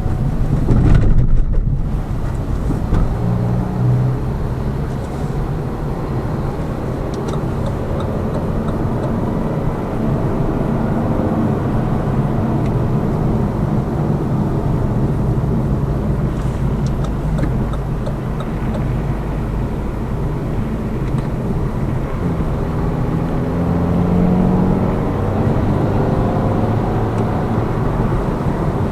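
Lada Vesta Cross with its 1.8-litre four-cylinder engine and automated manual gearbox, heard from inside the cabin while driving: a steady engine hum under tyre and road rumble. There are a few light knocks from the suspension, which has newly replaced front struts and no longer knocks. The engine pitch rises briefly near the end as the revs climb.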